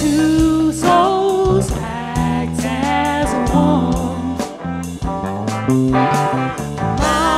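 Music: an instrumental passage of a song, with guitar and a wavering sung or played melody line over a bass line and a steady beat.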